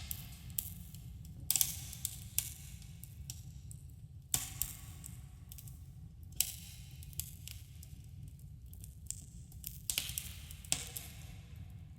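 Campfire crackling: scattered sharp pops and snaps, some in quick clusters, over a steady low rumble of the burning fire, with a slight echo from the cave around it.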